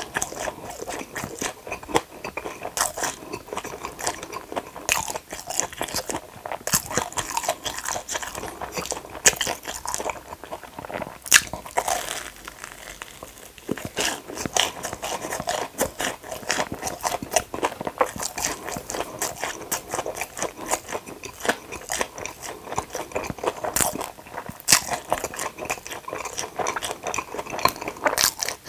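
Close-miked biting and chewing of batter-fried Korean hot dogs: repeated crisp crunches of the fried crust with wet chewing in between.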